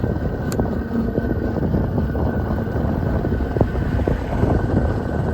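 Wind rushing over the microphone and the rolling noise of an electric dual-sport motorbike cruising slowly in its lowest eco mode, with a thin steady whine under it. One sharp tick about half a second in.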